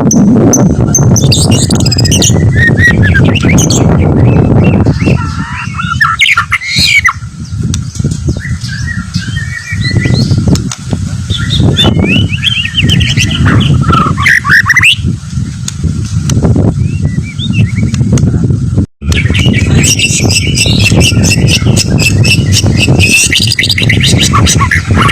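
White-rumped shama (murai batu) singing a varied run of quick whistled phrases and harsh chattering notes, over a heavy low rumble of background noise. The sound cuts out for an instant about three-quarters of the way through.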